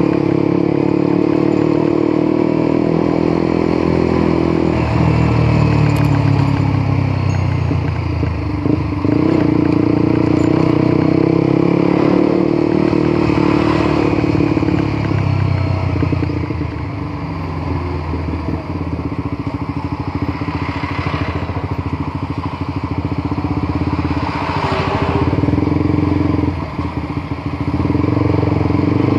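Honda CBR150R's single-cylinder engine and exhaust while riding, its note rising and falling several times with throttle and gear changes.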